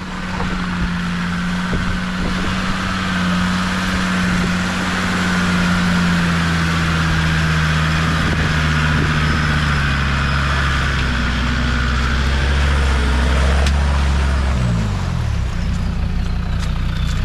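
Off-road 4x4's engine running steadily as it crawls through an obstacle, then the engine note falls away about fifteen seconds in.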